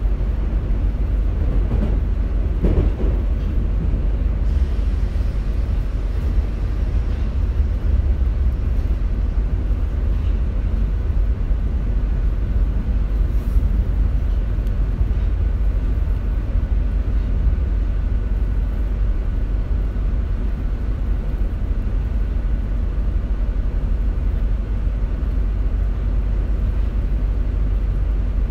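Steady low rumble of an RER C commuter train running, heard from inside the carriage, with a brief louder swell about three seconds in and a faint steady whine.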